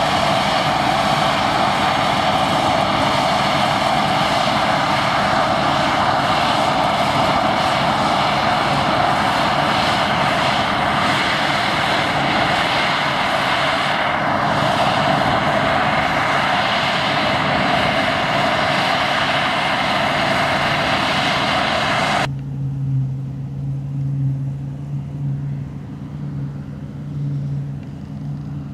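Deutz-Fahr Topliner 4090 HTS combine harvester running at work, a loud steady machinery drone. About three-quarters of the way through it cuts off abruptly to a quieter, lower engine hum.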